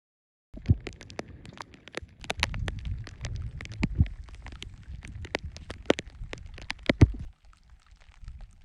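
Rain striking close to the microphone: irregular sharp taps, a few much louder than the rest, over a low rumble. It cuts in abruptly about half a second in and drops away near the end.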